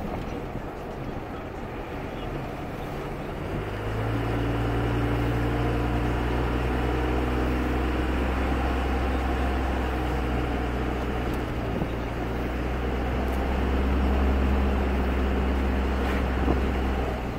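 A 2001 Dodge Ram 2500's 5.9 L Cummins diesel running through a 4-inch aFe exhaust. The engine note steps up to a higher, steady speed about three and a half seconds in, holds there, and drops back near the end.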